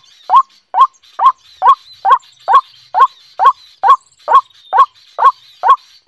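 A bird calling over and over at a very steady pace, a little more than two short notes a second, each note a quick sweep up and back down.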